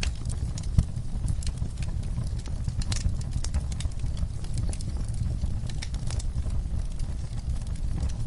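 Wood fire crackling, with irregular sharp pops over a low steady rumble of the flames; one louder pop about a second in.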